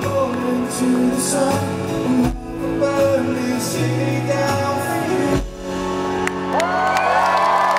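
Live rock band playing the closing bars of a song, a man singing over strummed guitar, ending on a held chord. Near the end, the crowd starts cheering and whooping.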